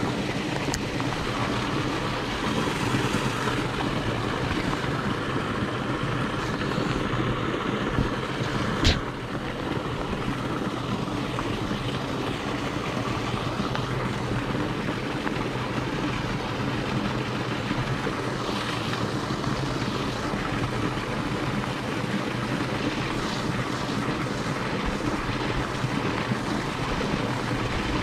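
Steady rain falling on a pond, with wind on the microphone and a low, even drone beneath. There is one sharp click about nine seconds in.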